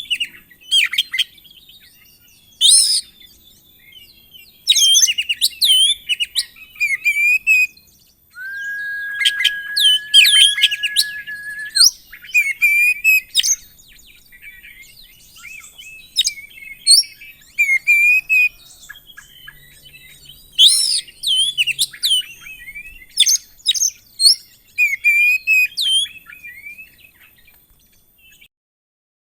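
Oriental magpie-robin (kacer) singing a loud, varied song in short bursts of sweeping whistles and chattering notes, with one long level whistle held for about four seconds some eight seconds in.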